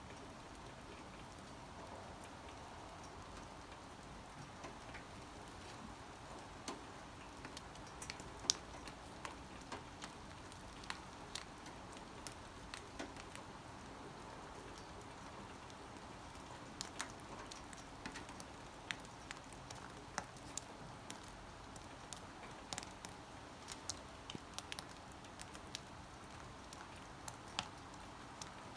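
Light rain: a faint steady hiss with individual raindrops ticking sharply and irregularly on a hard surface, the drops coming more often after the first few seconds.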